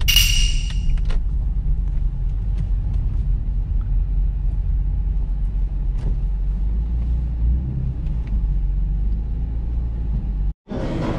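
Nissan Fairlady Z33's 3.5-litre V6 running at low speed, a steady low rumble heard from inside the cabin as the car creeps along. A short bright chime sounds at the very start, and the sound cuts off abruptly near the end.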